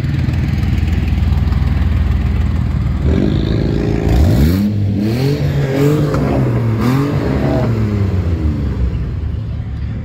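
Car engine idling with a low rumble, then revved in a quick series of blips about three seconds in, the pitch rising and falling several times before settling.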